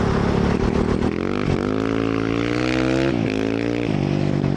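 Honda CRF450R dirt bike's single-cylinder four-stroke engine accelerating: its pitch climbs for about two seconds, drops sharply for a gear change just after three seconds in, climbs again, then falls back near the end.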